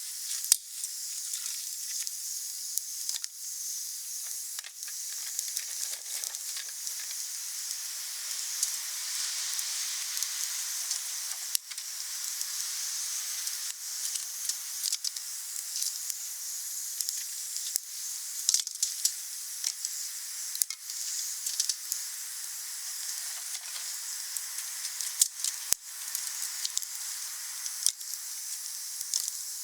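Wood fire burning steadily, a soft hiss with frequent small crackles and a few louder pops.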